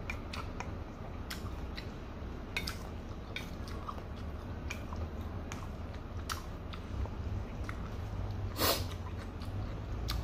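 A person chewing a mouthful of fried noodles close to the microphone: scattered wet mouth clicks and smacks, with one louder, longer noise near the end. A steady low hum runs underneath.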